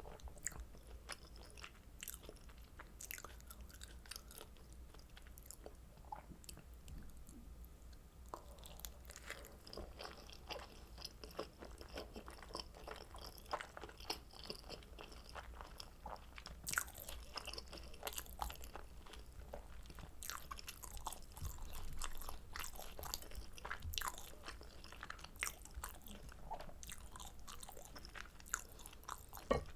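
Close-miked eating of kimchi dumplings dipped in carbonara buldak sauce: biting and chewing with many quick, irregular wet mouth clicks.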